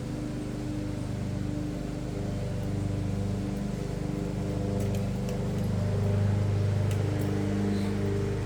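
A steady engine-like hum, swelling slightly about two-thirds of the way through, with a few faint clicks.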